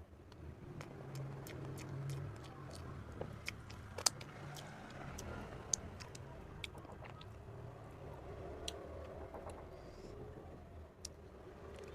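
Close-miked eating: chewing a soft fruit cream cake, with scattered sharp mouth or utensil clicks, the loudest about four seconds in, over a steady low rumble.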